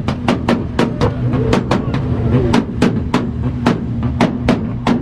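Car engine held on a two-step launch-control rev limiter, its exhaust firing loud, sharp pops and bangs several times a second at uneven intervals over a steady engine drone.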